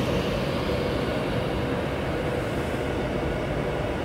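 A train running through the station: a steady rumble with a held humming tone, easing off a little near the end.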